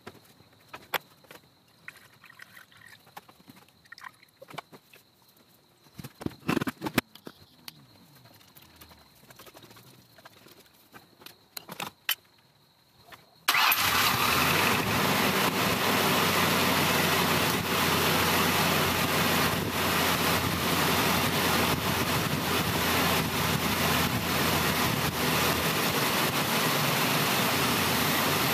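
Scattered light knocks and clicks while coolant is poured in and the radiator hose is squeezed by hand to burp out air, then, about halfway through, the Mazda B2300's 2.3-litre four-cylinder engine cuts in abruptly, running loudly and steadily. It is restarted after the coolant refill to circulate the coolant and draw down the level as trapped air is purged.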